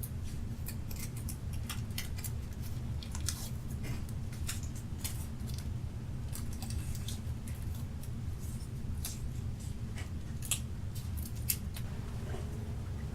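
Sticky tape being pulled off the roll, torn and pressed down, with towel handling: short irregular crackles and snips, over a steady low hum.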